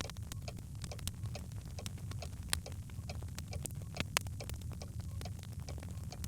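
Birch logs crackling in a fireplace: irregular sharp pops and ticks, a few louder than the rest, over a steady low rumble.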